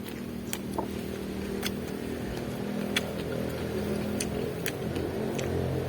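A steady engine hum, like a motor vehicle running, that slowly grows louder. Over it come sharp crisp crunches, about six, of raw vegetables being bitten and chewed.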